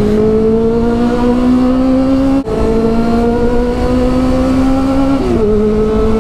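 Honda CB400 Super Four's inline-four engine through a Two Brothers aftermarket exhaust, pulling under acceleration. Its note climbs steadily, drops twice as gears are shifted up (about two and a half seconds in and near the end), then climbs again.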